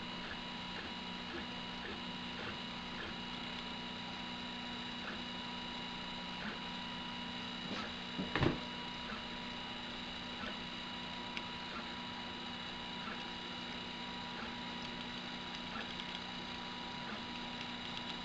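Prusa i3-type 3D printer running: a steady whine of its stepper motors with faint scattered ticks, and a louder knock about eight seconds in.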